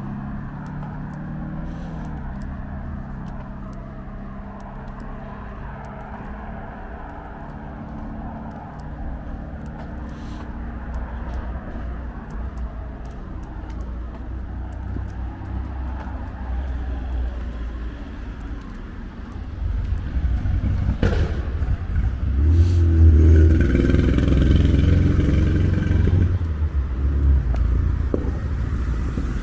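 Road traffic: motor vehicle engines running steadily, then a louder vehicle passing close from about twenty seconds in, loudest a few seconds later.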